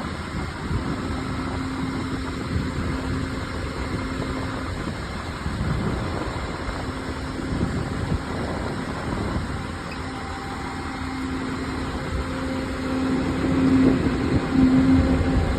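Heavy earthmoving equipment's diesel engine running steadily with a low rumble, getting louder about thirteen seconds in.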